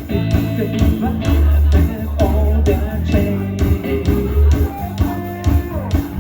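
Live rock band playing, with guitar and heavy bass over a steady drum beat.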